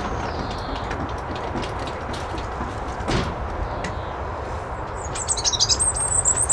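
A small songbird singing a phrase of high, wavering chirps near the end, over steady low outdoor background noise, with a single knock about three seconds in.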